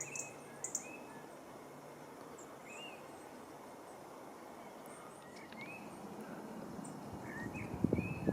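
Small birds giving scattered short chirps and a few thin high-pitched notes over a steady background hiss, with a few soft low thumps near the end.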